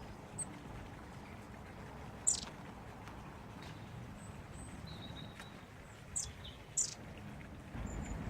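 Small garden birds chirping: a few short, high calls spread out, over a steady low background rumble that gets louder near the end.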